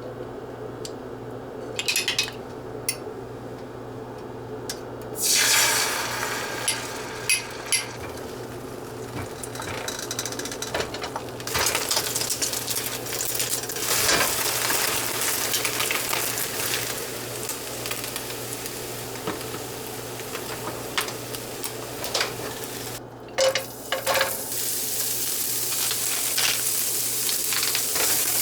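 Food sizzling as it fries in a pan while being stirred, with scattered clinks and knocks of cookware in the first few seconds. The sizzle sets in about a third of the way through, cuts out briefly near the end, then resumes. A steady low hum runs underneath throughout.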